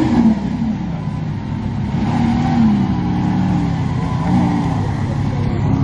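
Car engines revving, the pitch rising and falling back several times over a steady low engine rumble.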